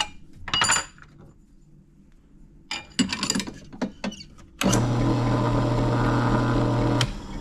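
Metal clicks and clinks as a push rod is fitted into a drill chuck, then, about four and a half seconds in, the drill motor runs steadily with a low hum for about two seconds, spinning the push rod to check it for wobble, and stops suddenly.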